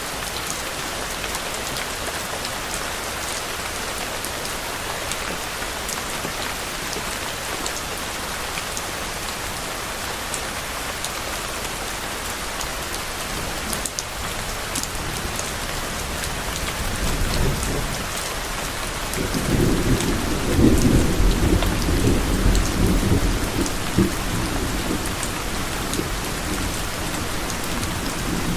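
Steady rain falling, with scattered drops ticking, and a low rumble of distant thunder that builds about two-thirds of the way through and then slowly fades.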